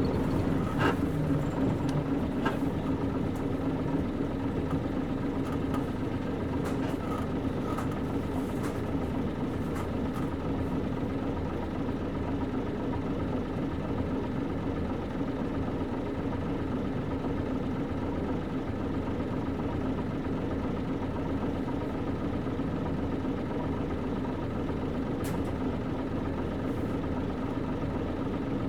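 Nissan Diesel KC-UA460LSN city bus with its PG6 diesel engine running steadily, heard from inside the passenger cabin. A few light clicks and rattles come in the first ten seconds.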